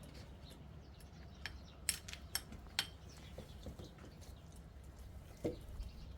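A handful of sharp clicks and light clinks, most of them close together about two seconds in, with a softer knock near the end, over a low steady hum.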